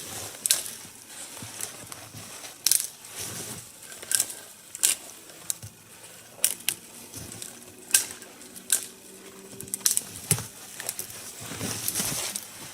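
Dry, needle-less lower branches of a spruce being snapped off by hand for kindling: a string of sharp, irregular cracks, roughly one a second.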